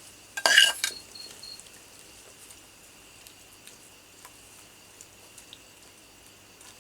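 A brief loud rustling burst about half a second in, followed by scattered faint ticks over a steady high insect trill, typical of crickets.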